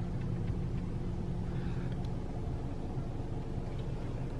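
Steady low hum of an idling car heard from inside the cabin, with a few faint clicks.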